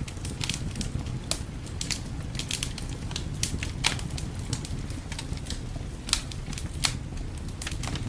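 Wood fire crackling and popping in a fireplace: irregular sharp snaps, a few louder pops near the middle and later on, over a steady low rumble.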